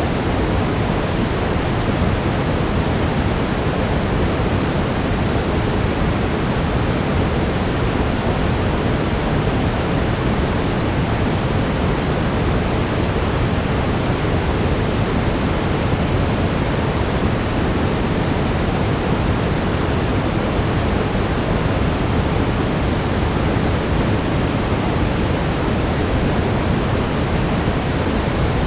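Steady brown noise: a deep, even rushing hiss with most of its weight in the low end, unchanging throughout.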